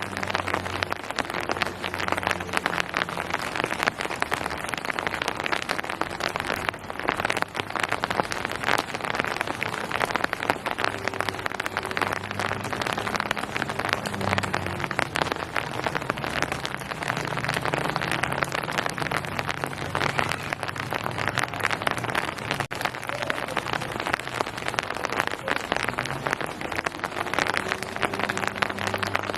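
Steady rain falling, a dense, even patter of many drops, with a faint low hum coming and going underneath.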